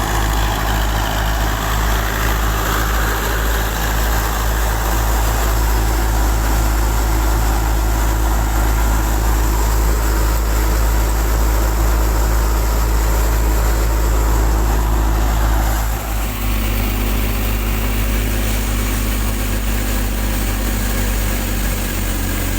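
Russian-made tractor's diesel engine running steadily under load as it drives a thresher, the engine and threshing machinery making one continuous loud drone. About sixteen seconds in the sound dips briefly, then settles into a slightly different steady note.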